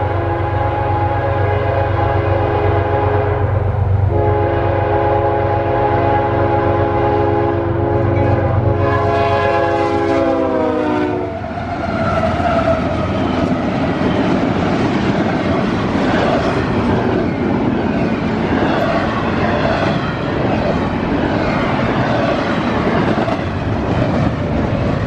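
A CSX freight locomotive's multi-chime horn sounds two long blasts as the train approaches, over the low rumble of its diesel engine. About ten seconds in, the chord slides down in pitch as the locomotive passes. After that comes the steady noise of the intermodal train's cars rushing past at speed.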